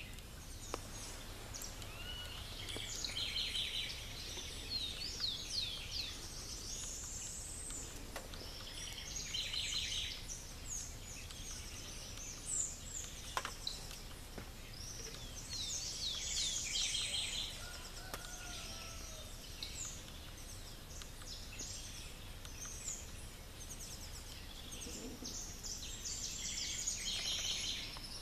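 Dawn chorus of several birds singing at once: overlapping high chirps, rapid trills and sweeping whistles, swelling and thinning in waves. A steady low rumble runs underneath.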